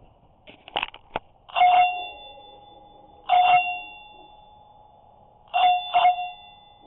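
Bell-like chime tones struck and left to ring out, doorbell-like: a few light clicks, then single strikes about a second and a half apart, then a quick double strike near the end.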